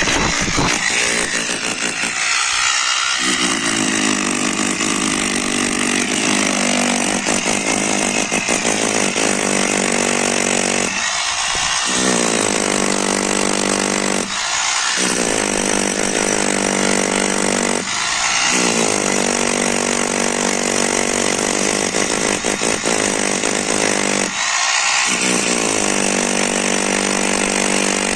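A loud motorised power tool running continuously, with a steady pitch that briefly drops out and then picks up again five or six times.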